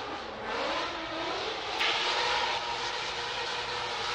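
A Ford Mustang drift car's engine revving hard while it slides sideways: the pitch climbs about half a second in and then holds high and steady. A short burst of hiss comes about two seconds in.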